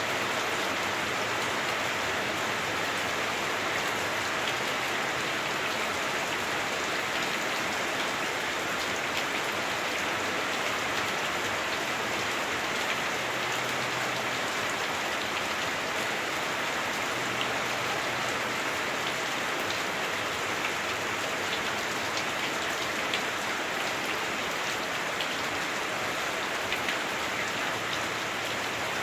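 Heavy rain falling on a house roof, heard from inside: a steady, dense hiss with scattered drop ticks, a bit clunky through the roof.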